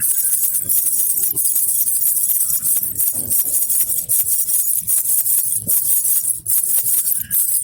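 Baby rattle (jhunjhuna) with small jingling bells shaken continuously: a dense, bright jingle made of many quick rattling strokes.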